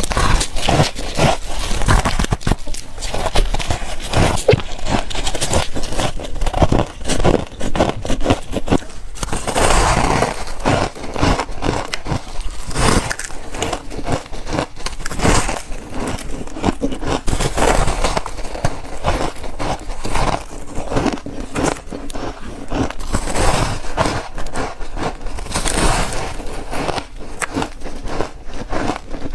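Freezer frost being bitten and chewed close to the microphone: a dense, continuous run of crunching and crackling.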